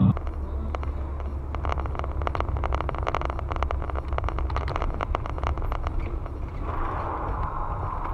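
Car on the move, heard from a dashcam: a steady low engine and road rumble with many faint, irregular clicks, and a hiss rising near the end.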